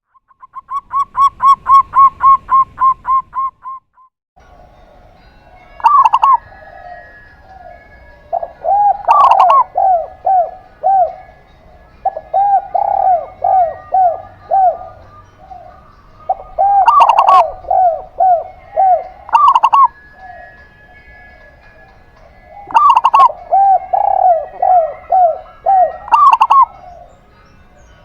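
Doves cooing in repeated phrases, each a couple of higher notes followed by a quick run of lower coos: a zebra dove (perkutut) and a spotted dove (derkuku). The opening few seconds hold a rapid, evenly spaced run of beeping notes that rises and then fades.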